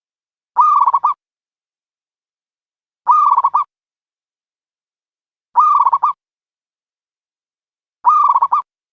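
A dove's call, used as a lure for trapping doves, repeated four times at even 2.5-second intervals. Each call is a short coo of about half a second that breaks into quick pulsing notes at its end, and every repeat is identical, as from a looped recording.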